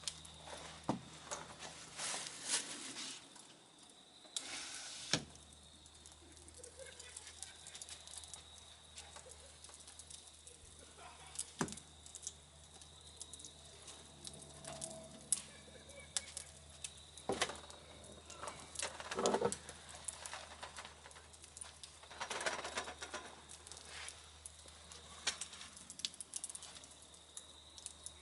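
Wood campfire crackling, with sparse, irregular pops and snaps over a faint hiss.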